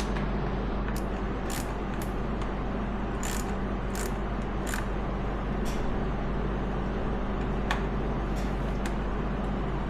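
A steady low hum, with about a dozen sharp clicks and taps scattered unevenly over it, from hand work on the quad's parts.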